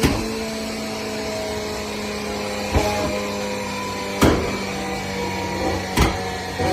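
Sports car engine and exhaust running at steady revs, a steady drone, broken by four sharp cracks about 1.5 to 3 s apart.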